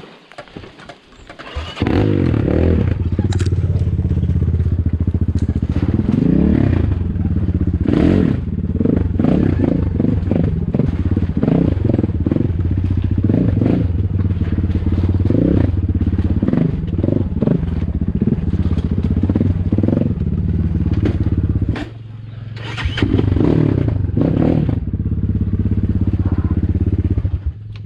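An off-road motorcycle engine starts running close by about two seconds in and is revved up and down repeatedly. It drops away briefly a little past two-thirds of the way through, then revs again until near the end.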